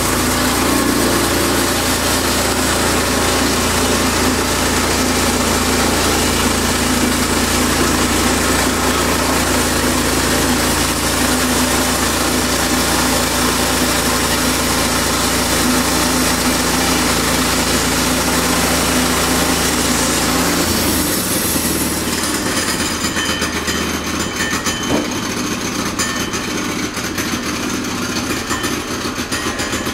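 Portable sawmill's engine running steadily. About two-thirds of the way in, its low hum drops away and the sound becomes thinner and rougher.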